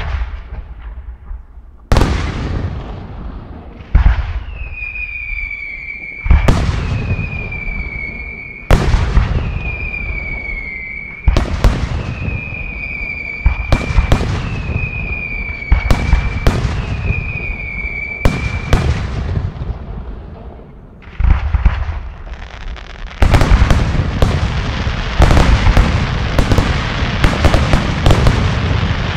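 Aerial firework shells, mostly 75 mm, bursting overhead: loud bangs about every two seconds, each trailing off, several followed by a high steady whistle lasting a second or two. Near the end a quick barrage of many bangs follows one on another.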